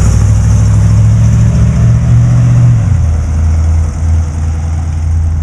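1956 Chevrolet Bel Air's 350 V8 crate engine with headers running loudly; its pitch steps down about three seconds in as the engine speed drops.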